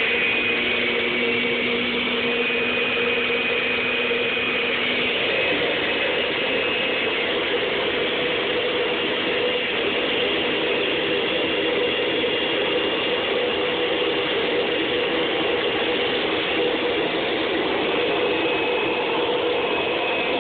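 Vacuum cleaner running steadily, a continuous rushing noise with a faint motor whine. A lower hum in it drops out about five seconds in.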